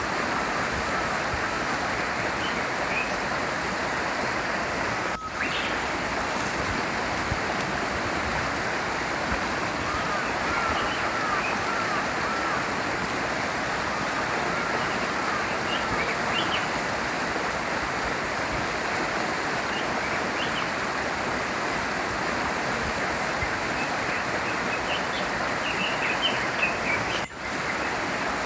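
A small stream flowing steadily, with small birds chirping now and then over the water. The sound cuts out for an instant twice, about five seconds in and near the end.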